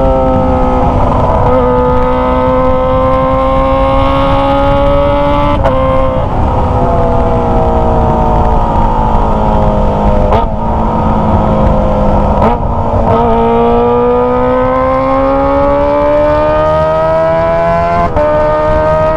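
Kawasaki ZX-25R's 250 cc inline-four running through a Toce aftermarket exhaust while under way. The engine note falls, climbs slowly, eases off, then climbs again, with brief breaks where the note shifts, as at gear changes, several times.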